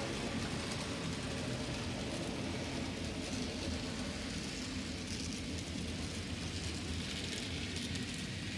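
Arnold N scale U28c model locomotive, standard DC version, running with a long freight train: a steady low motor hum with a fine rattle of small wheels on the track.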